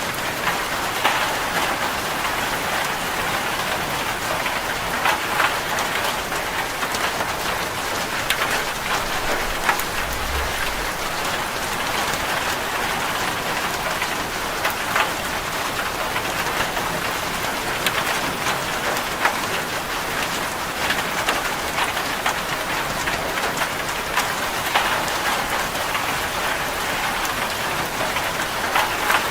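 Steady, heavy rain drumming on a corrugated zinc sheet roof, a dense patter of countless drops.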